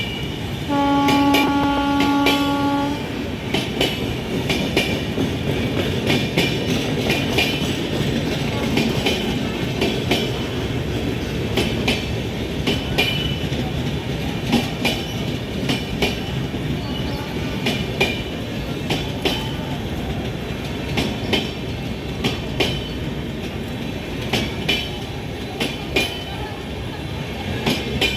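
An Indian Railways train passing close by at speed, its wheels clattering over the rail joints throughout. A locomotive horn sounds one steady blast of about two seconds near the start.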